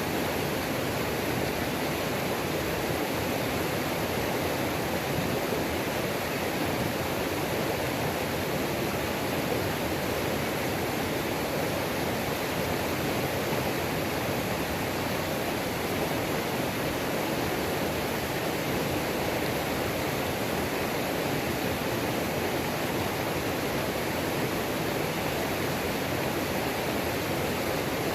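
Waterfall on a mountain creek: water pouring over rocks in a steady, unbroken rush.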